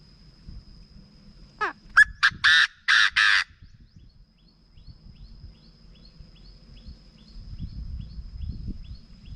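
Chinese francolin calling: one loud harsh phrase about two seconds in, opening with a quick rising note, then two short notes and three longer ones.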